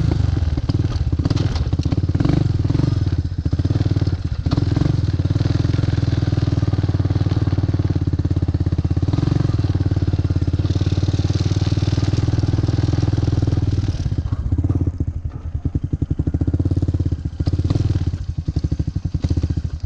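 ATV (four-wheeler) engine running while riding, a steady, even pulsing drone. It wavers from about two-thirds of the way through and cuts off suddenly at the very end.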